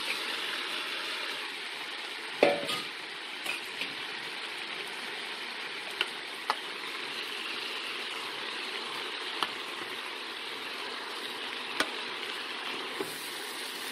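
Onions, tomato and green chilli sizzling steadily in oil in an electric pressure cooker's pot as chopped spinach is added and stirred, with a few sharp clicks of the spoon against the pot, the loudest knock about two seconds in.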